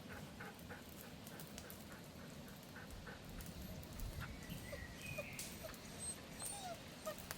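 A husky whining faintly a few times in the second half, over the light crackle of a bonfire.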